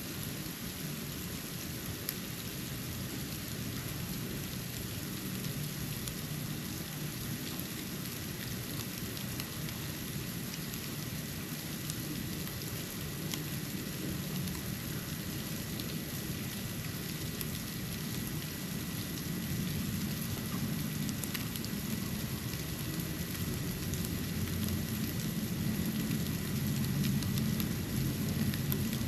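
Snow falling: a steady hiss sprinkled with fine ticks of flakes landing, over a low rumble that grows a little louder near the end.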